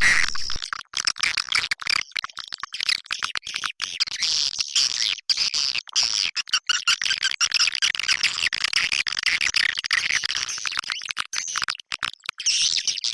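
Swiftlet call recording: dense, rapid twittering and chirping of swiftlets, the lure sound played to draw swiftlets into a nesting house. It is broken by many brief drop-outs.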